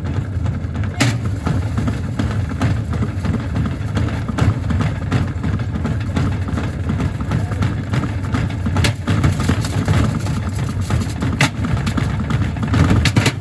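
Gorenje SensoCare washing machine running with heavy bricks in its drum: a steady loud rumble with occasional sharp knocks as the load bangs inside.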